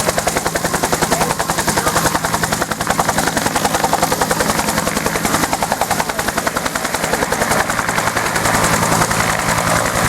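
Bell UH-1 Huey helicopter running loudly, its two-blade main rotor beating in a fast, steady rhythm.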